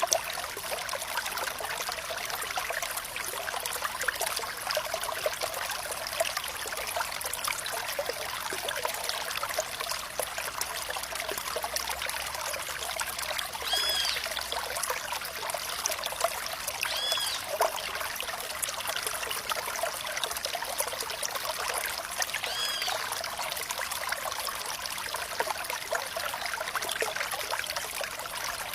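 Stream water flowing and trickling steadily. Three short, high chirps sound near the middle.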